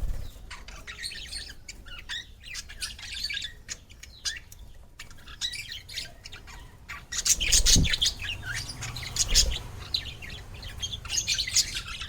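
Small cage birds chirping and squawking in a busy, overlapping chatter of short high calls, thickest a little past halfway and again near the end.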